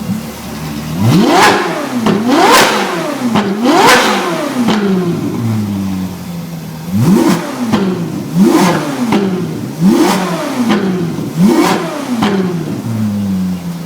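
Ferrari 458's naturally aspirated V8 through an iPE aftermarket exhaust, revved hard in quick blips from idle: about three sharp revs, a short spell of idle, then about five more, each rising and dropping fast before settling back to idle.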